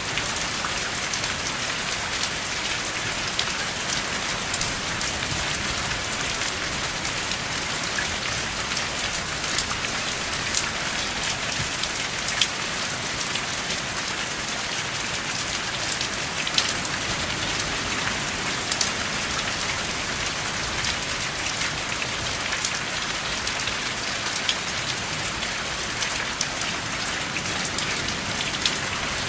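Steady rain falling, an even hiss with scattered louder drops ticking throughout; no thunder.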